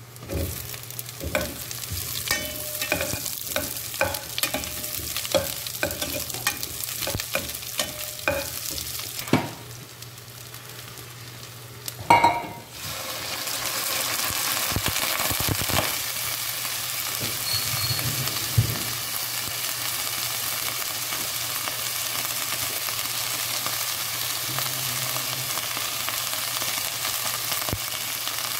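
Garlic and onion sizzling in hot oil in a pot while being stirred, with many short clicks of a utensil against the pot. About twelve seconds in there is a brief loud clatter, then steadier, louder sizzling as chicken pieces fry.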